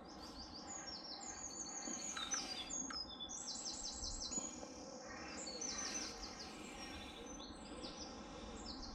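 Songbirds singing: rapid series of short, high chirping notes in quick trills, over a low steady background noise.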